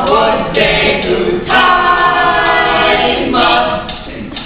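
A small group of amateur singers singing a cappella in Japanese, with one long held note in the middle.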